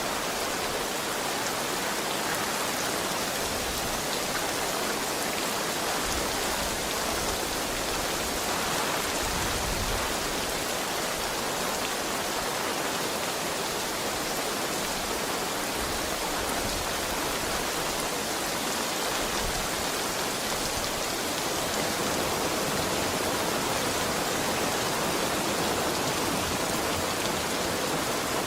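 Steady heavy rain falling, a dense even hiss of drops with no distinct single impacts.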